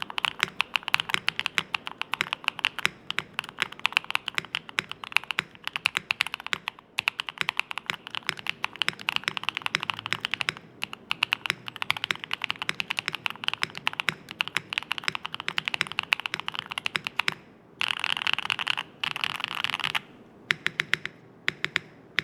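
Typing on a Neo75 Cu mechanical keyboard fitted with GMK Tiramisu keycaps. There is a steady stream of quick keystroke clacks with a few brief pauses. Late on comes a stretch of very fast, dense typing.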